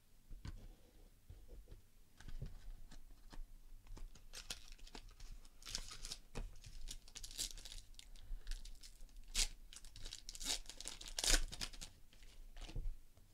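Trading-card pack wrapper being torn open and crinkled by hand, in a run of crackly rips, with scattered light clicks and taps of cards being handled.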